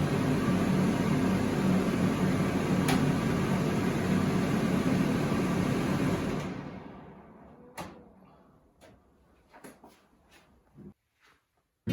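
Kitchen extractor hood fan running steadily with a low hum, then switched off about six and a half seconds in and spinning down over a second or so. A few light clicks follow.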